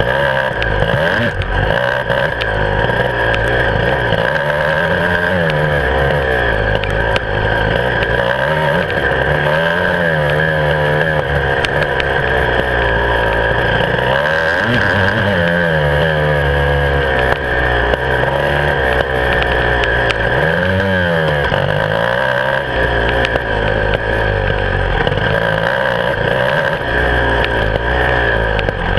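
Beta 300 RR two-stroke enduro motorcycle engine, heard close from the handlebars, revving up and down again and again as the bike is ridden along a dirt trail, with scattered knocks over the rough ground.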